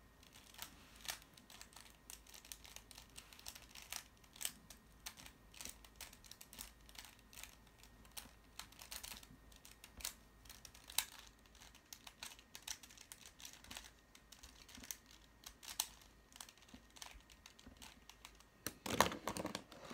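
Plastic puzzle cube being turned by hand: a run of quick, uneven clicking and clacking of the layers, with a louder clatter a little before the end.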